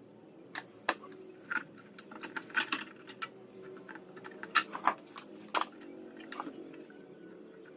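Irregular small clicks and taps of tools and hard parts being handled and set down on a workbench during amplifier repair, the sharpest a little past the middle, over a faint steady low hum.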